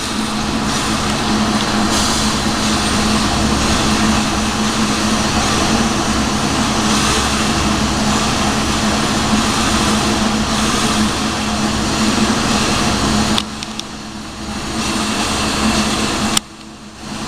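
Steady rushing roar of a glassblowing torch flame, with a low hum under it. It drops away abruptly twice near the end and comes back each time.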